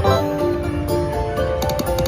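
River Dragons slot machine playing its electronic jingle of held chiming notes over a stream of quick ticks as the reels spin.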